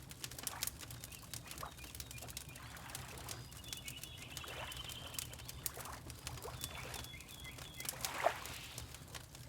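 Fireplace crackling with frequent sharp pops over a low steady rumble, water lapping in soft splashes, and a small bird giving a thin, rapid trill twice in the middle.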